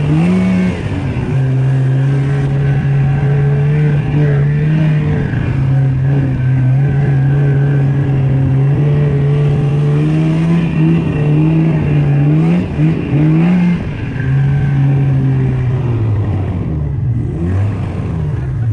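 Snowmobile engine running under throttle with a steady drone. Partway through, its pitch rises and falls in several quick surges, then drops near the end as the throttle eases.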